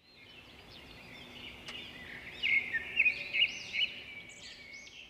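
Small cage birds chirping and twittering, several overlapping calls, loudest in a run of sharp chirps in the middle.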